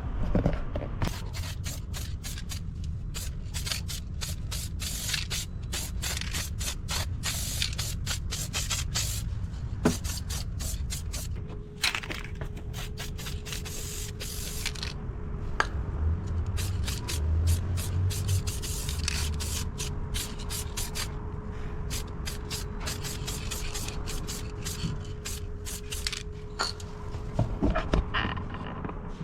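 Paint being sprayed onto brake parts in many short hissing bursts, one after another. A faint steady hum runs underneath through the middle part.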